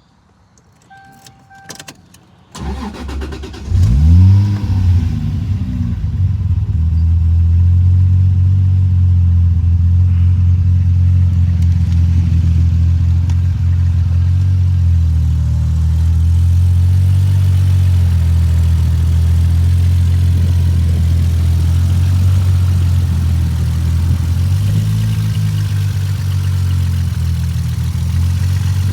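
A 1993 Toyota Supra's engine starting: a short beep and a few clicks, then the starter cranks briefly and the engine catches with a quick rev flare that rises and falls. It then settles into a steady idle, with a slight rise in revs near the end.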